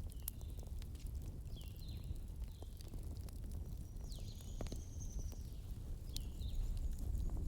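Wood fire burning in a fireplace: a steady low rumble of flames with scattered sharp crackles and pops. Several faint, short, high chirps dip in pitch, and there is one thin high whistle in the middle.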